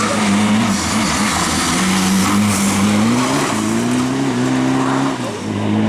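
Rally car's engine revving hard at speed, its pitch climbing and dropping at gear changes, over a steady hiss of tyres and air.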